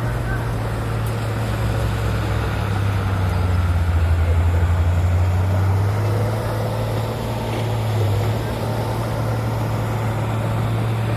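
Heavy diesel engine running steadily with a low throb, swelling louder for a few seconds in the middle before settling back.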